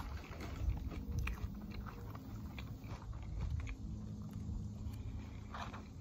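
A person chewing food with the mouth close to the microphone: irregular soft wet clicks and low thuds of the jaw working, without a steady rhythm.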